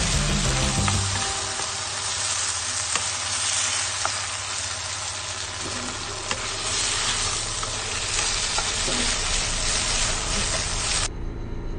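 Pork rolls and vegetables sizzling as they are stir-fried in a wok, with wooden utensils scraping and knocking against the pan now and then. The sizzle cuts off suddenly near the end.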